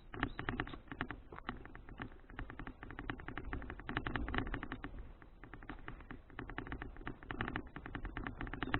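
Rapid, irregular clicking and rattling from a folding bicycle being ridden, over a low rumble.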